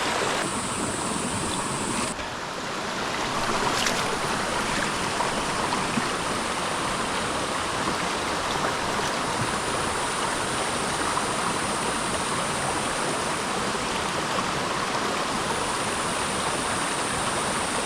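Creek water rushing over rocks, a steady, even rush with no breaks.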